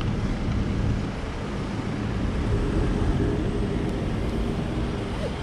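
Steady motor-vehicle engine noise with a low hum.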